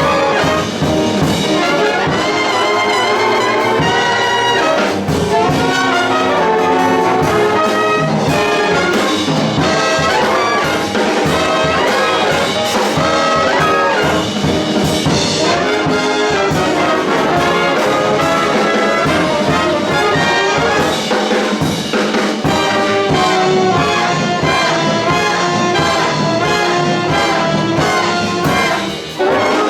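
Big band brass section, trumpets and trombones, playing loud swing jazz ensemble passages, with a short break near the end.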